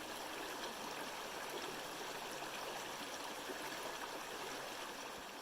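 A stream of running water, an even steady rush that fades slightly near the end.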